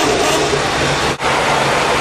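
Vintage car engines idling under a loud, steady rushing noise. The sound breaks off for an instant about a second in.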